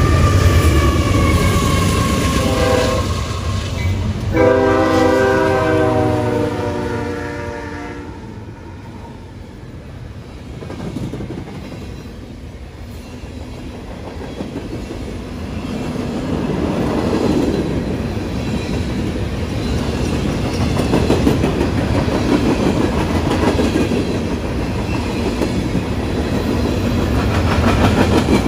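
A CSX freight locomotive's multi-note air horn sounds in two long blasts, stopping about eight seconds in. Then the rumble and rapid clatter of the freight train's wheels on the rails builds as the train rolls past.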